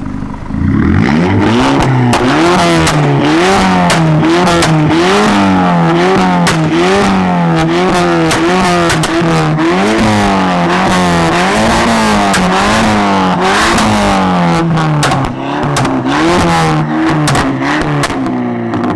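Car engine revved again and again in quick blips, roughly once a second, with the exhaust popping and crackling throughout as pops and bangs on each lift-off. It starts about half a second in, eases briefly near the end of the second quarter from the end, and falls away at the very end.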